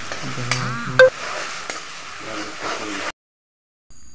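Chopped tomatoes and onions sizzling in hot oil in a wok while a metal spoon stirs them, with one sharp ringing clang of the spoon on the wok about a second in. The sizzling cuts off suddenly about three seconds in.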